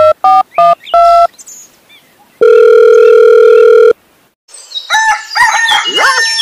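Dubbed cartoon sound effects: a quick run of short two-note electronic beeps, then one steady electronic tone held about a second and a half, then, after a brief gap, a tangle of warbling calls sliding down in pitch.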